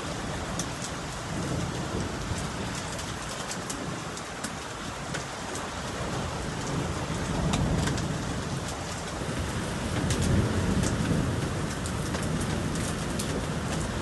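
Steady rain falling, with sharp individual drop hits throughout. A low rumble of thunder swells about seven seconds in and again about ten seconds in.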